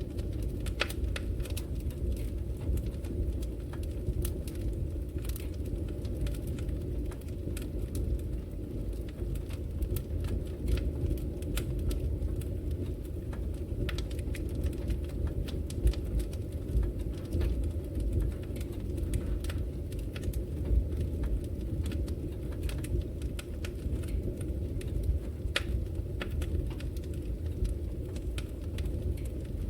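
Wood fire burning in a fireplace: a steady low noise of flames, with irregular sharp crackles and pops from the logs.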